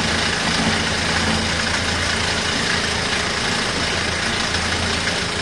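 Small portable RV washing machine running its wash cycle: a steady motor hum with water churning in the tub.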